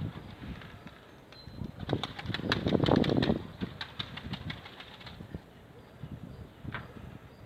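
A gust of wind buffeting the microphone with scattered clicks and rattles, swelling from about two seconds in, loudest around three seconds, and dying away by five seconds.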